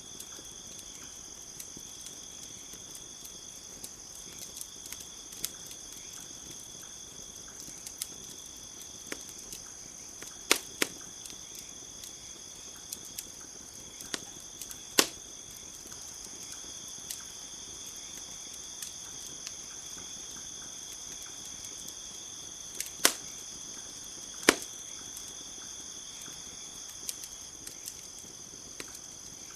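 Wood campfire crackling, with sharp pops scattered a few seconds apart, the loudest four of them standing out. Under it, a steady high chirring of crickets.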